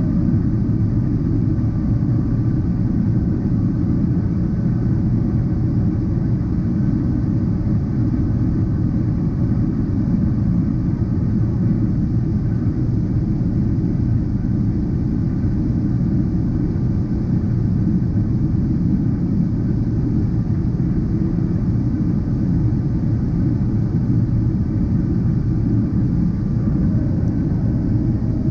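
Boeing 777-300ER's GE90 turbofan engines running steadily, an even low rumble with faint steady tones above it and no change in level.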